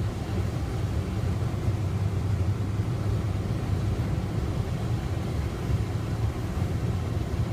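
Steady low rumble of a car driving, heard from inside the cabin: engine and road noise at an even level.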